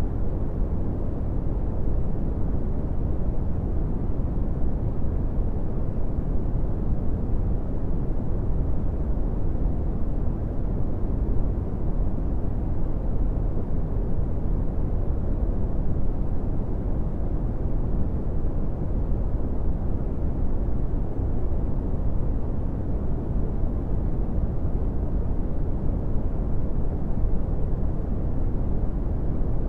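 Brown noise: a steady, deep rumbling hiss with its energy heaped in the low end and very little treble, unchanging throughout.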